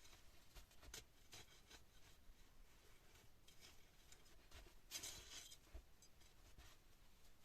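Near silence with faint scattered scratching and rustling, and one brief louder scrape about five seconds in.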